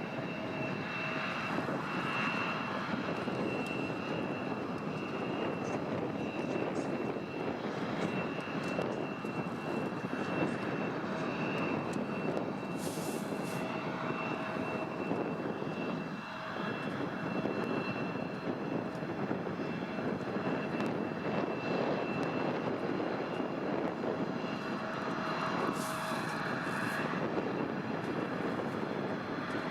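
Airliner engines running steadily: a constant rushing noise with a steady high whine running through it.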